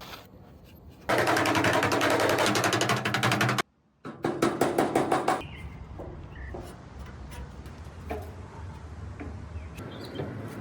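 Rapid, rattling mechanical impacts in two loud bursts, the first cut off suddenly, followed by a quieter steady hum with a few light clicks.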